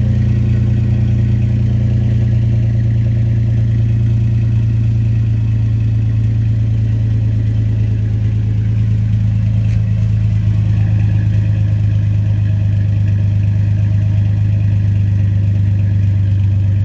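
2007 Dodge Dakota engine idling steadily through a homemade glasspack and straight-pipe exhaust, a loud, even low drone. The exhaust has some air leaks.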